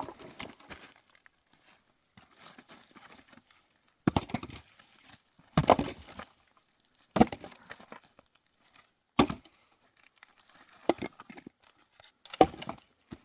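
About six sharp woody cracks, spaced one to two seconds apart, with light rustling between them: firewood being broken up.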